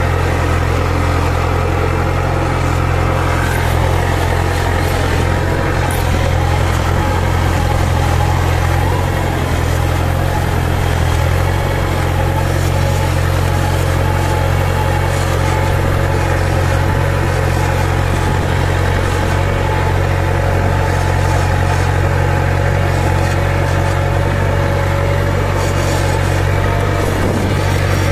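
New Holland TD4040F tractor's diesel engine running steadily at a constant speed, with a deep, even drone.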